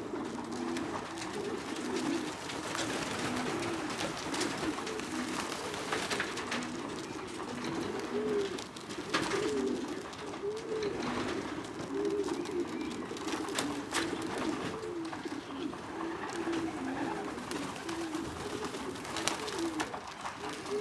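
Several young racing pigeons cooing over one another continuously, with a few sharp clicks scattered through.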